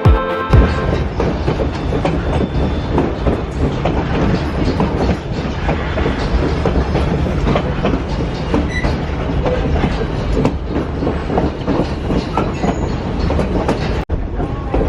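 White Pass & Yukon Route narrow-gauge train running along the track: a steady rumble with many small clicks and clacks from the wheels and cars.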